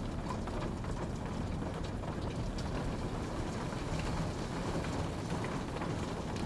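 Steady rain falling, with a dense low rumble under scattered small drop ticks.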